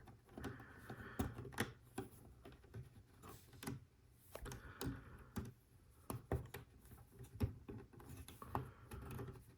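Faint, irregular light clicks and taps of plastic Lego Technic parts being handled, as black connector pins are pushed into holes and pieces are fitted together.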